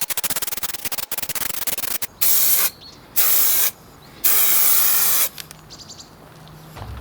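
Upholstery spray adhesive from an aerosol can: a fast, even rattle of the can being shaken, then three bursts of spray, the last about a second long.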